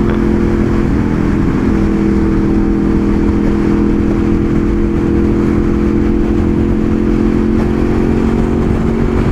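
Honda VFR800 Interceptor's V4 engine running at a steady cruise, its pitch shifting slightly about a second in and then holding level, under heavy wind rumble on the rider's microphone.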